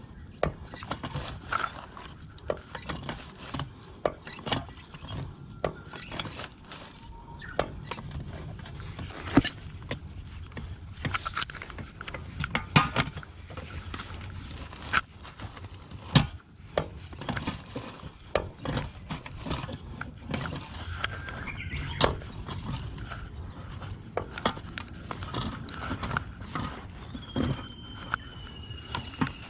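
Irregular clicks, taps and clinks of hand tools and pipe fittings being handled during plumbing repair work, with a thin, slightly falling high tone for a couple of seconds near the end.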